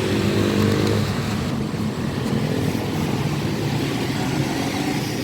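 Motor vehicle engine running close by amid street traffic noise, strongest in the first second.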